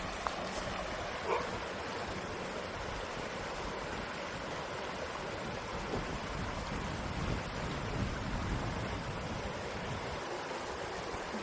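Creek water flowing steadily, a continuous even rush.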